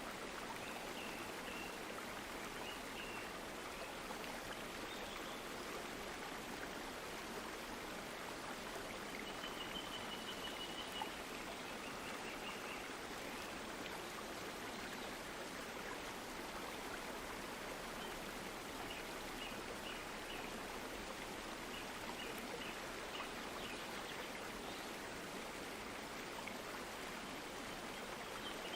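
Stream water running steadily, an even rushing and trickling, with faint high chirps now and then.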